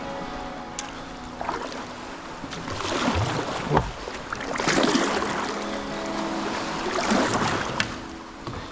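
Water splashing and sloshing against a kayak's hull on a choppy sea, in swells every couple of seconds, with a single knock on the hull a little before the midpoint.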